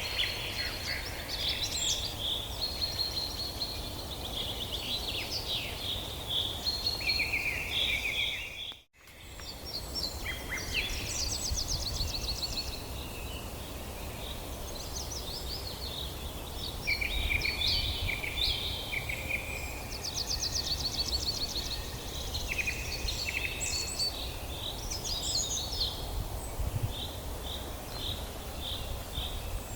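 Several songbirds singing together in a forest, overlapping phrases of chirps, rapid trills and repeated notes, over a steady low rumble. The sound cuts out briefly about nine seconds in.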